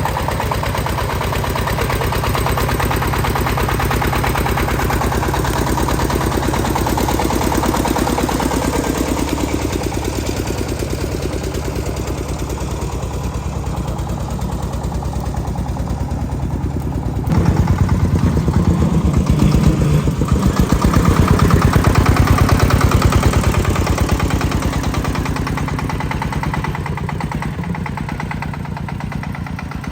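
Tractor engine running with a fast, even throb. About seventeen seconds in it grows louder and heavier, as under load. It eases off again toward the end.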